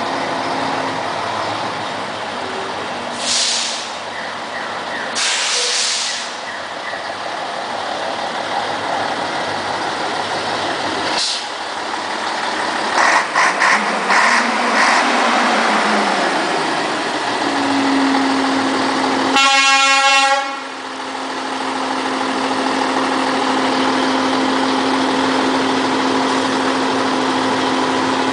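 A 320 hp Scania 112H truck's diesel engine running while the rig manoeuvres, with two short hisses of air early on and a rev that rises and falls midway. About two-thirds through, the truck's horn sounds once for about a second, and a steady low tone continues under the engine to the end.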